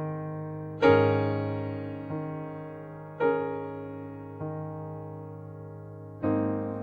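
Slow solo piano chords, each struck and left to ring and fade, with a new chord about every second or so; the strongest come about a second in, past the middle and near the end.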